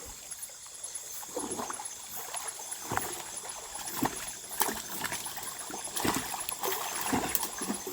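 Irregular small splashes and sloshing of river water, with a few light knocks.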